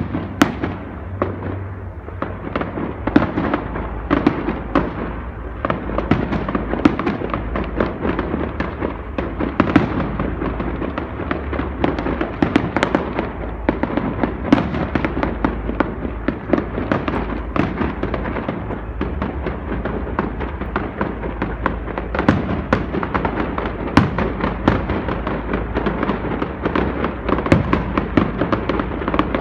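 Fireworks going off without a break: a dense run of sharp cracks and pops, several a second, over a steady low rumble.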